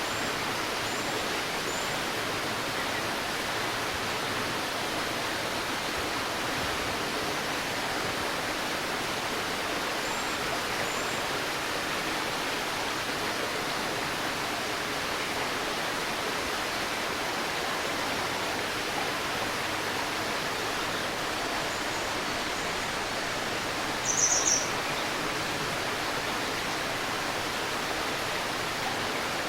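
Steady rushing and babbling of a shallow river. Small birds chirp faintly and high a few times, and one bird gives a louder short call about three-quarters of the way through.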